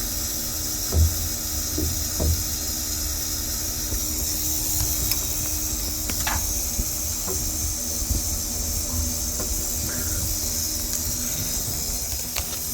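Steady rushing air hiss with a low rumble and hum from a shuddering overhauled valve, with two sharp taps on the valve about one and two seconds in.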